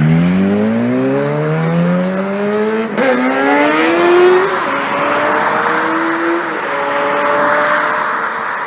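Suzuki GSX-R 600's inline-four engine through an Akrapovic full exhaust, accelerating hard: the pitch climbs steeply, breaks at a gear change about 3 s in, climbs again, then settles to a near-steady note after another shift at about 4.5 s. A rushing noise builds in the second half.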